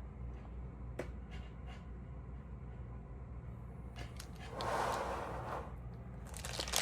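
Stamp album pages being handled: a few light clicks, then a page rustling as it turns a little past the middle, and more rustling near the end, over a steady low hum.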